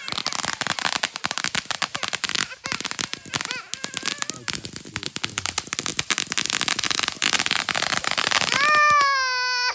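Consumer fireworks crackling: a dense, rapid run of pops and snaps that lasts about eight and a half seconds, then stops. Just before the crackling ends, a young child starts to wail.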